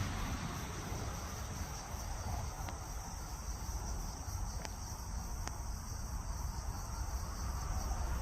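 Insects chirring in a steady high trill over a low rumble, with three faint ticks in the middle.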